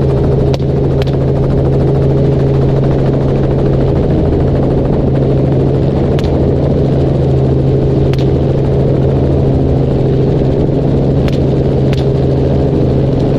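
Helicopter running in flight, a steady loud drone with a strong low hum. A few faint clicks come and go over it.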